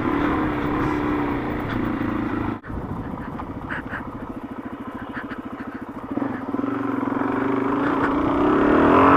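Suzuki DRZ400S single-cylinder four-stroke engine on stock exhaust, running under way. After a sudden brief drop about two and a half seconds in, it settles to an even, low-rev thumping. Over the last few seconds the revs climb steadily.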